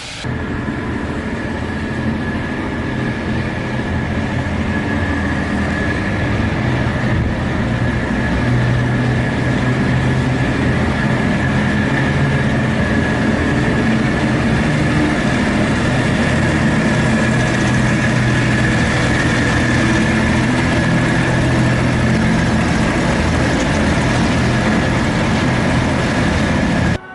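Bluebell Railway steam train running: a steady, loud rail noise with a low hum and a thin high whine, which cuts off suddenly near the end.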